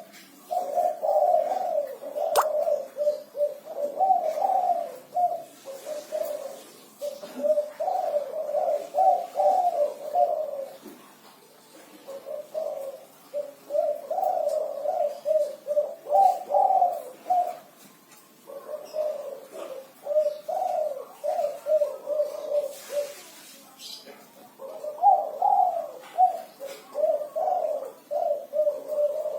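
Spotted dove (derkuku, tekukur) cooing over and over in a string of phrases with short pauses between them. This is the 'kuku 6' song type prized by Indonesian dove keepers, each phrase a set run of coo notes.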